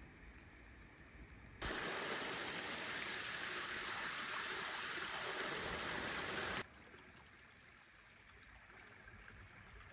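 Steady rushing of running water that cuts in abruptly about a second and a half in and cuts off just as abruptly about five seconds later, with faint quiet on either side.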